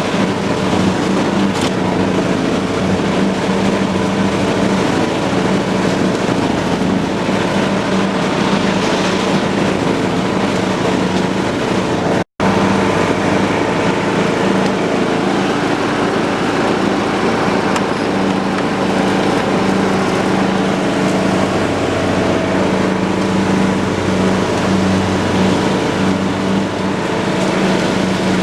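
John Deere lawn tractor engine running steadily under load while mowing, with the mower deck's whir underneath. The sound cuts out for an instant about twelve seconds in.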